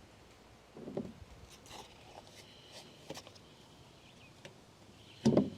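Scattered light knocks and clicks of something being handled, with a dull thump about a second in and a louder one near the end.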